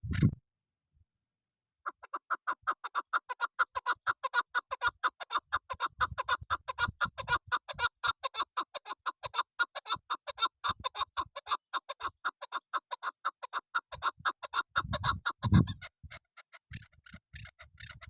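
Chukar partridge calling: a long, fast run of short repeated clucking notes that starts about two seconds in and lasts about twelve seconds, then fades into fainter notes, with a couple of low thumps near the end.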